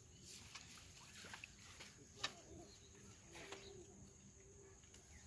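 Near silence: faint outdoor ambience with a few soft clicks, one sharper click a little over two seconds in.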